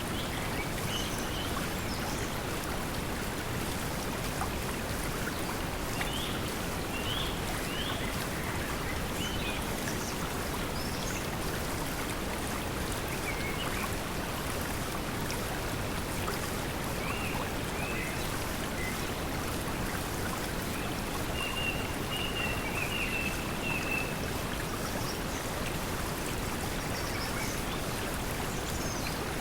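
Steady pink noise blended with flowing stream water, with scattered short bird chirps throughout and a longer trilling bird call about 21 seconds in.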